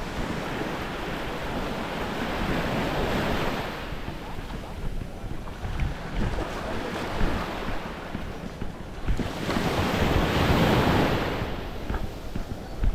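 Small waves washing up the beach, swelling twice, first in the opening seconds and again near the end, with wind rumbling on the microphone throughout.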